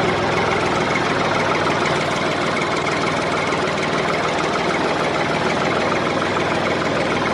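A motor running steadily with a fast fine rattle, like an engine idling.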